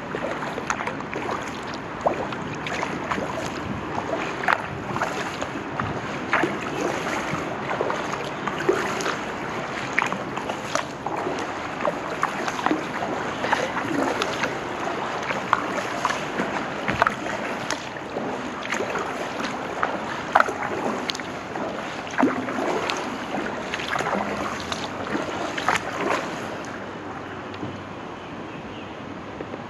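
Kayak paddle strokes splashing and dripping water, stroke after stroke. The splashing stops about four seconds before the end, leaving a quieter wash of water.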